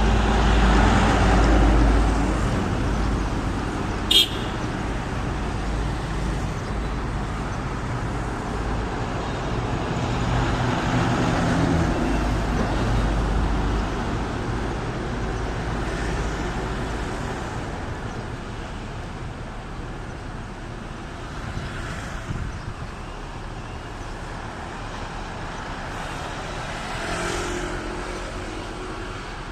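Road traffic noise, with vehicles passing, swelling and fading several times. One short, sharp high chirp comes about four seconds in.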